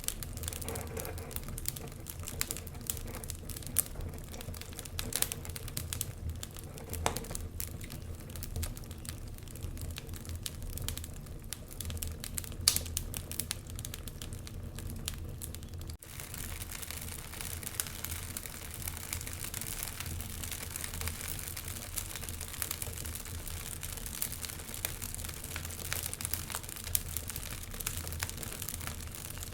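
Wood fire burning in a fireplace, crackling with frequent small pops over a low steady rumble, with one sharper pop about halfway through.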